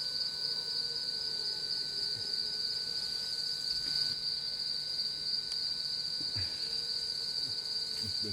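Insect chorus: one steady, unbroken high-pitched drone, with a fainter, lower steady tone beneath it.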